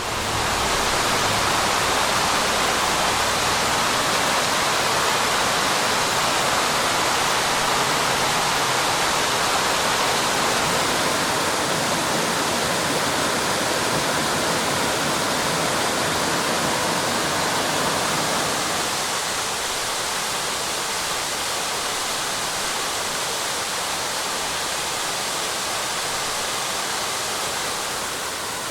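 Waterfall, a steady even rush of falling water; it drops a little in level about two-thirds of the way through.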